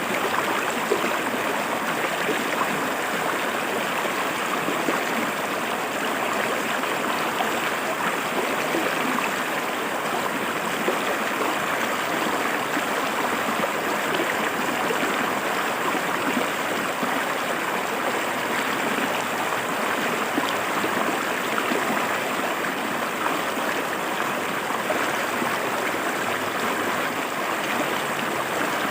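River water flowing and splashing over rocks, a steady, unbroken rush.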